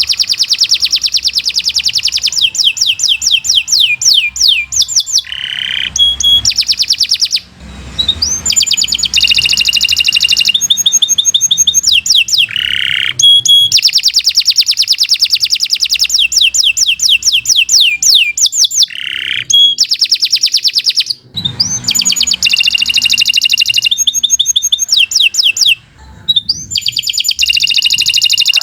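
Domestic canary singing a long song of rapid trills and fast-repeated high notes, with a few short pauses.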